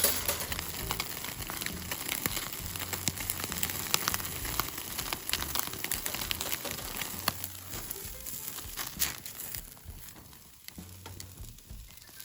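Chicken skewers sizzling over a wood fire, with many sharp crackles and pops; the sizzle grows quieter near the end.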